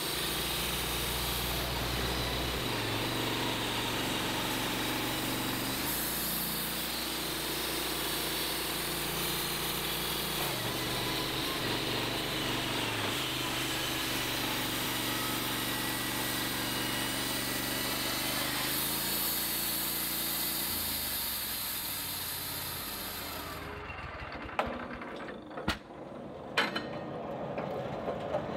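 Wood-Mizer LT15 portable band sawmill running on its Kohler engine, the band blade cutting through a log with a steady saw noise and engine hum. About 24 seconds in, the cut ends and the high saw noise drops away, followed by several sharp knocks.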